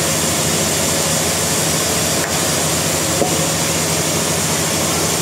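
Sawmill machinery running steadily: a constant loud mechanical drone with a low engine-like hum underneath.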